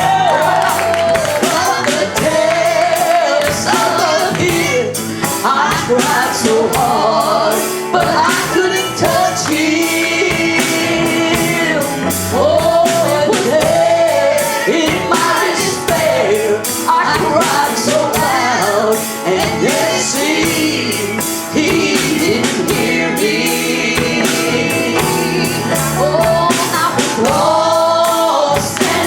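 Gospel worship music: male and female voices singing with a full band and a steady drum beat.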